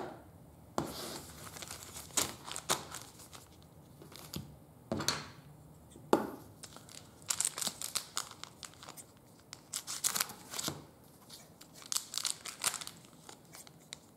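Trading-card pack wrappers being torn open and crinkled, with cards handled: a string of short, irregular rips and rustles.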